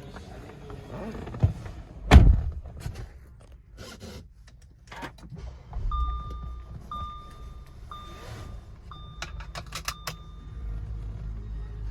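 A car door shuts with a loud thunk about two seconds in, among smaller clicks and rattles of handling. Then an electronic warning chime beeps about once a second for several seconds, and a low rumble sets in near the end.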